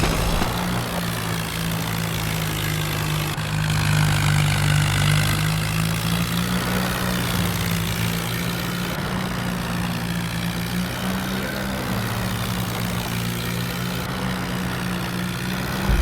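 Tractor engine running steadily under way, growing louder for a couple of seconds about four seconds in.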